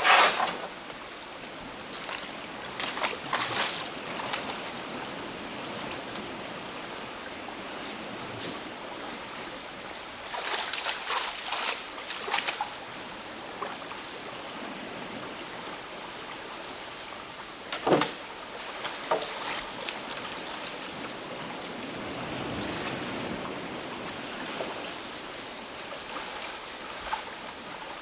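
Canoe paddling: paddle strokes splashing and water dripping in bursts over a steady trickle of water, with a sharp knock about two thirds of the way through.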